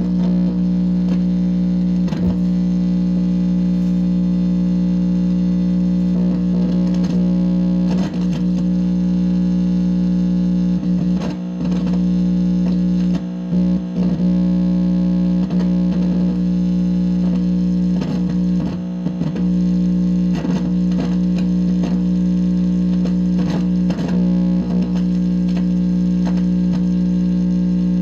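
Loud, steady electronic buzz from an amplifier's speaker: a hum with many overtones, crossed by warbling pitch sweeps and crackles, briefly dropping out a few times in the middle. The owner takes it for directed-energy interference picked up by his receiving equipment.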